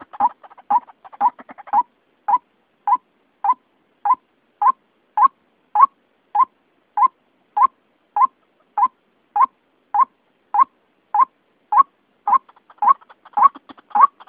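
White-breasted waterhen calling: a monotonous string of short, identical, slightly rising notes, a little under two a second. The calls are busier and faster in the first two seconds and again near the end.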